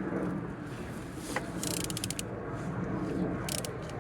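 A20DTH diesel engine being turned over by hand with a wrench at the crankshaft: mechanical turning noise with ratchet-like clicks, a cluster of them in the middle. It turns freely with compression on all cylinders.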